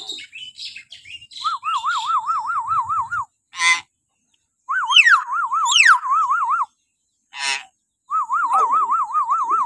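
Hill myna calling. It gives three bouts of a shrill, rapidly wavering whistle, each lasting about two seconds, with two quick downward-sliding whistles in the middle bout and short harsh squawks between the bouts.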